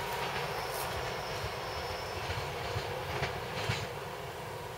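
ÖBB class 4020 electric multiple unit rolling along the rails and fading as it moves away, with a steady rumble and a few sharp clicks.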